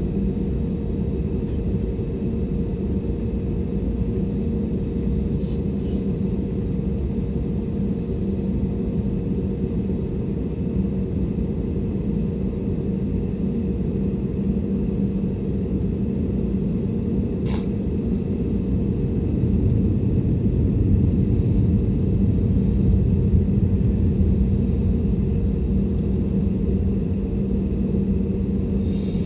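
Steady low rumble of an Airbus A320neo's cabin, with a constant engine hum. There is one sharp click a little past halfway, and the rumble swells slightly for a few seconds after it.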